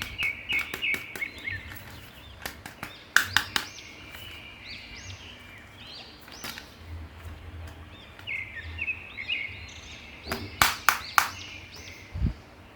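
Birds chirping in short repeated runs of high chirps, with scattered sharp clicks and taps, the loudest a few about three seconds in and a cluster near the end.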